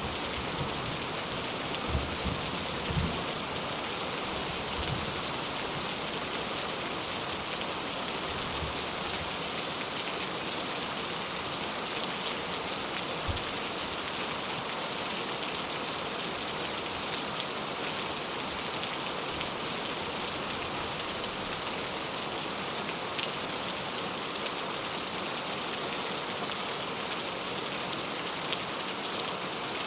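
Steady rain falling and splashing in an even hiss, with a few short low thumps in the first few seconds and one more about halfway through.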